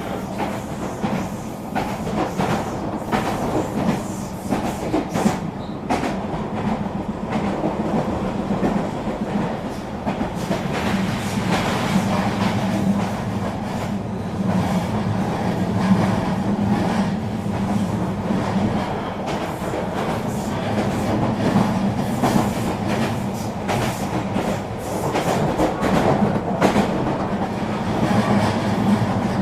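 Eurobahn regional train running steadily along the line: a continuous rolling rumble and hum, with repeated clicks and knocks from the wheels on the track.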